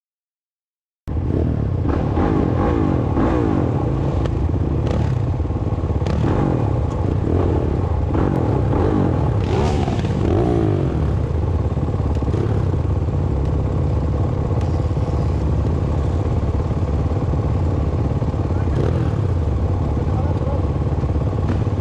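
Off-road motorcycle engine running loud and steady as the bike is ridden, with its pitch rising and falling as the throttle is worked. It starts abruptly about a second in.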